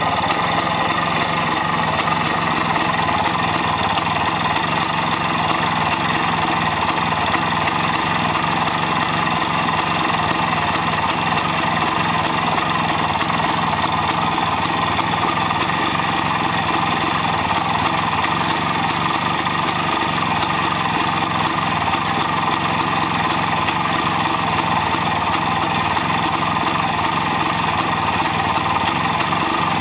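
IZh-56 motorcycle's single-cylinder two-stroke engine running steadily at an even speed, with no revving.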